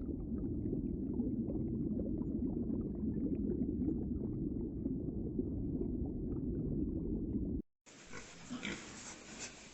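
A low, rough animal sound, dense and continuous, that cuts off abruptly after about seven and a half seconds; after a brief silence a quieter animal recording begins.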